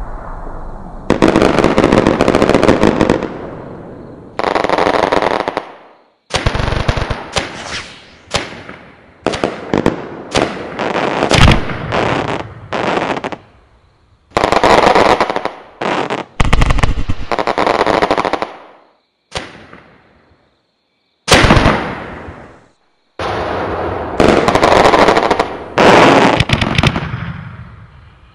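Home-built electronic firecracker simulator playing the rapid crackle of a firecracker string through a speaker, in repeated bursts of one to a few seconds with short gaps, several of them cut off abruptly.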